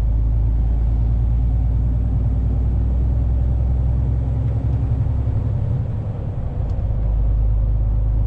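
Steady low rumble of a truck's engine and tyres on the road, heard inside the cab while driving, easing off for about a second near the six-second mark before coming back.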